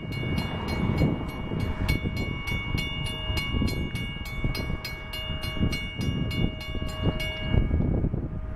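A railroad bell struck rapidly, about three to four strokes a second, ringing steadily over the low rumble of a train pulling out. The bell stops near the end while the rumble carries on.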